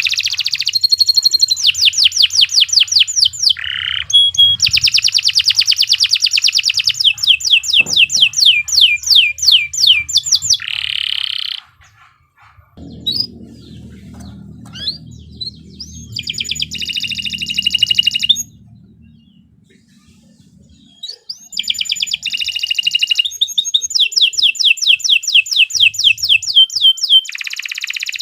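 Domestic canary singing long, fast trills of rapidly repeated high notes. About a third of the way in the trills stop and give way to a few seconds of scattered short chirps, then the rapid trilling starts again.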